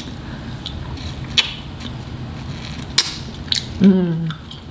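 Close-miked chewing of crunchy food, with a few sharp crunching clicks; the loudest comes about three seconds in. A short hummed 'mm' follows near the end.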